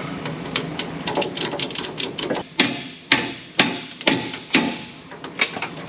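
A ratchet being worked to draw a combine's heavy feeder house up into place: quick runs of metallic clicks broken by several louder clanks.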